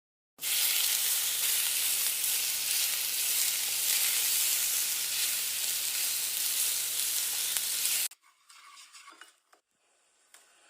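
Marinated chicken pieces frying in a pan, a steady sizzle that starts about half a second in and cuts off suddenly about eight seconds in.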